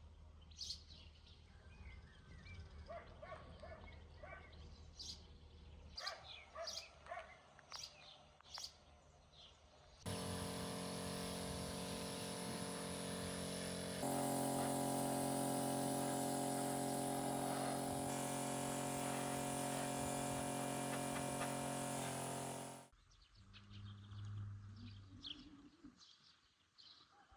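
Birds chirping in short calls for about ten seconds. Then a much louder steady sound of several held tones sets in, steps up a few seconds later and cuts off suddenly about thirteen seconds after it began. Quieter bird calls follow.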